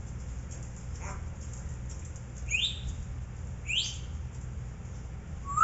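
African grey parrot whistling: two quick upward-sweeping whistles in the middle and a louder rising whistle at the end, over a steady low hum.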